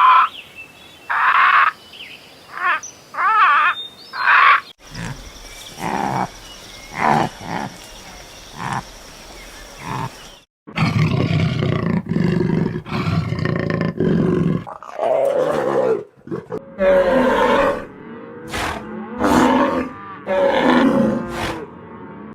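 Big-cat roars and growls in several short cuts: rough, loud calls that bend up and down in pitch, with shorter, higher calls in the first few seconds.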